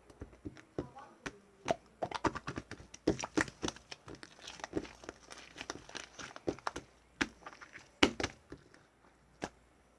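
Marbled slime being squeezed and kneaded by hand, making quick irregular clicks and pops that thin out and stop near the end.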